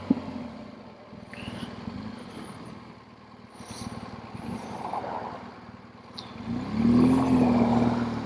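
BMW GS Adventure boxer-twin motorcycle engine running at low speed. It is quiet through the middle, then picks up to a louder, steady note near the end.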